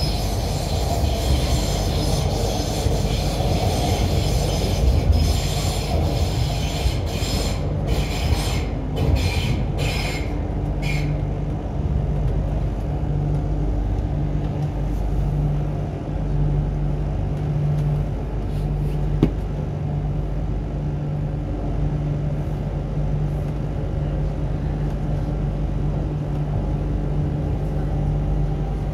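Interior noise of an MTR Q-train (CRRC Changchun electric multiple unit), heard inside the passenger car: a steady low hum throughout, with a high hiss that breaks up and stops about eleven seconds in.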